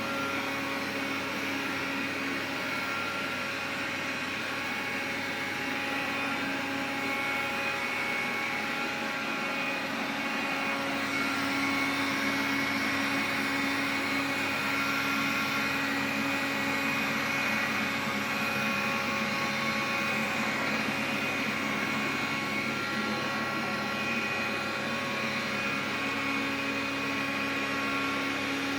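Xiaomi vacuum cleaner running: a steady motor whine of several tones over a hiss of airflow, with the tones shifting a little now and then. The owner takes it for an abnormal, extraneous noise.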